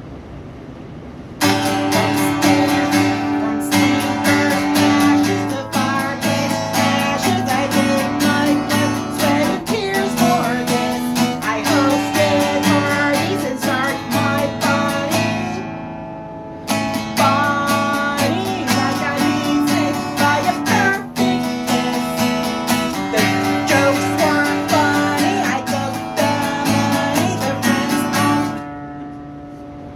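Strummed acoustic guitar playing without singing, in two passages broken by a brief pause near the middle.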